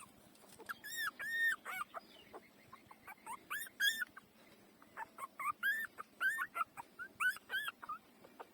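Four-day-old puppies crying: a run of short, high-pitched calls, each rising and falling in pitch, coming in bouts with short gaps between.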